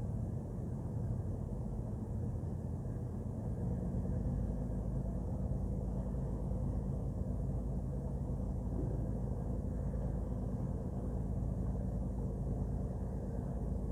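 Ship's engine running steadily, a low rumble with an even hum that grows stronger about three and a half seconds in.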